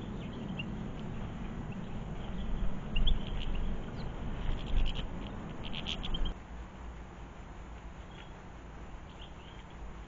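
Small garden birds giving short, high chirps, with a quick run of notes about five to six seconds in. Under them is a steady low background noise that drops away about six seconds in.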